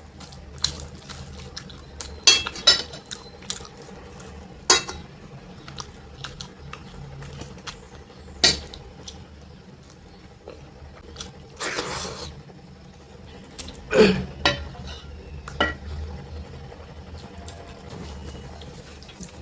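Scattered clinks and knocks of a plate and dishes at a meal of rice and dal, with a short scraping noise about twelve seconds in.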